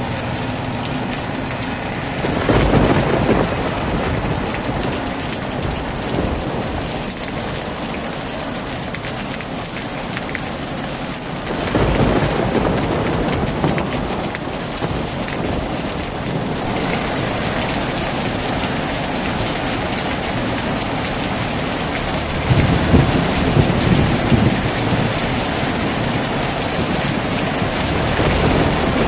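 Heavy rain falling steadily on a tin roof. Thunder rumbles in three louder swells: a few seconds in, near the middle, and again in the later part.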